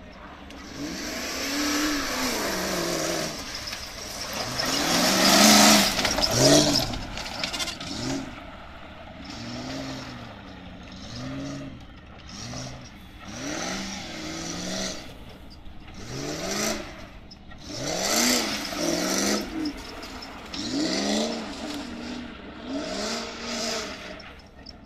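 Open-topped Land Rover's engine revving in repeated bursts as it is driven hard over rough, muddy ground. The pitch rises and falls with each burst of throttle, more than a dozen times, loudest about five to six seconds in.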